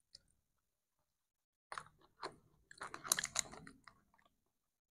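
A person chewing a mouthful of nasi Padang eaten by hand, with quiet wet mouth clicks and smacks. A few come about two seconds in, then a dense run near the three-second mark.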